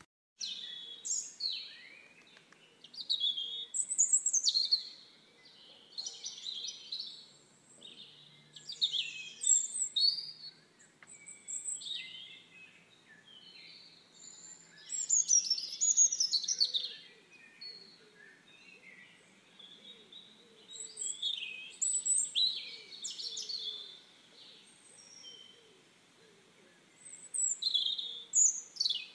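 Birds chirping and singing, short sweeping whistled phrases in clusters every second or two, with quiet gaps between.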